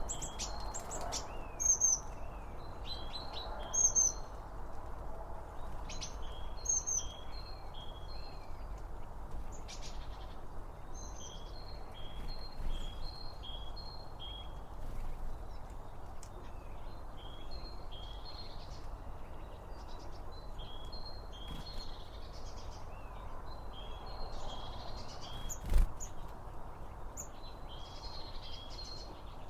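Small birds chirping and singing, many short repeated calls coming one after another, over a steady low background hiss. A single sharp knock comes near the end.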